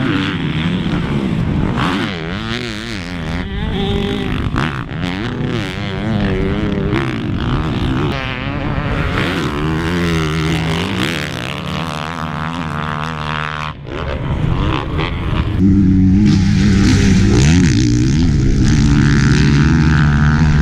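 Honda CRF450R four-stroke motocross bike engine revving up and down in repeated swells as it is ridden. After a short drop about 14 seconds in, it becomes louder and steadier.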